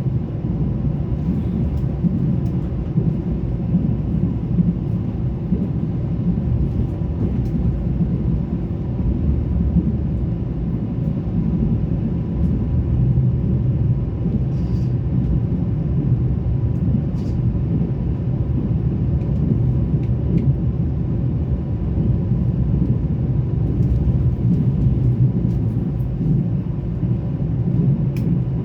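Mugunghwa-ho passenger train running, a steady low rumble with a few faint clicks.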